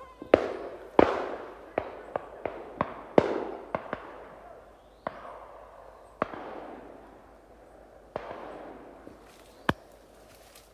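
Volley of shotgun shots from several guns at flying doves, about a dozen reports of varying loudness, near and further off, each with an echoing tail. The shots come thick in the first four seconds and then thin out to single shots.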